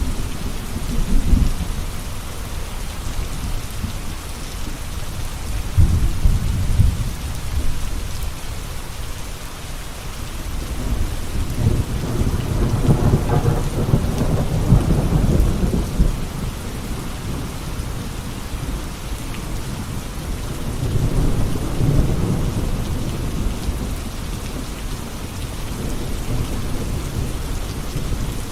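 Steady rain falling, with rolling thunder rumbling three times: about a fifth of the way in, a longer, louder roll near the middle, and once more about three quarters of the way through.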